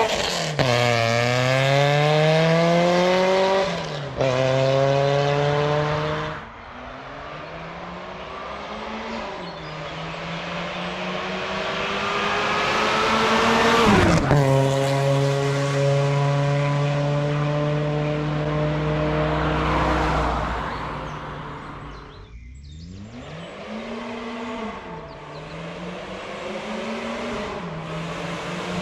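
Supercharged 2-litre 8-valve engine of a modified VW Golf Mk2 GTI (G60 supercharger) running through a straight pipe with the exhaust valve open. The revs rise and fall several times, with a long climb that drops off sharply about halfway, then a steadier stretch that fades before a short break and more revving.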